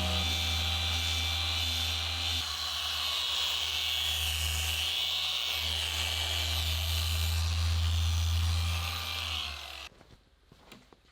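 Electric power tool motor running steadily with a low hum and a high hiss, changing slightly a couple of seconds in, then stopping abruptly near the end.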